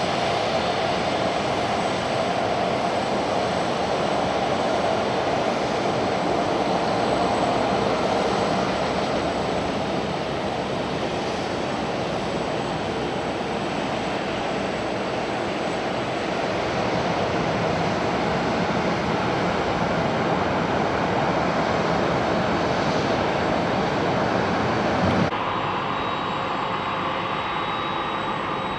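Jet airliner engines making a steady, loud noise as the aircraft moves near the airfield. About 25 seconds in the sound cuts off abruptly, and a quieter engine sound follows with a whine slowly rising in pitch.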